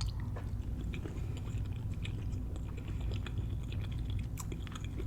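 A person chewing a mouthful of cornmeal-crusted fried catfish, close to the microphone: many small, irregular clicks with no words.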